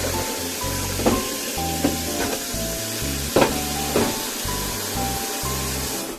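Tap water running steadily into a kitchen sink while dishes are washed, with several sharp clinks and knocks of dishes being handled; soft background music plays underneath.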